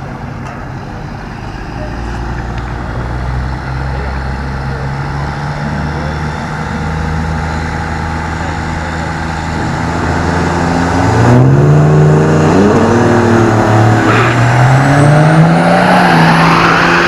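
Truck engine accelerating hard and getting louder. Its pitch climbs, drops at a gear change, then climbs again.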